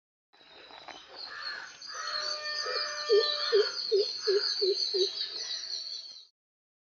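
Birds calling: a steady high trilling chorus, with a run of about seven low, evenly spaced hooting notes in the middle. It cuts off sharply near the end.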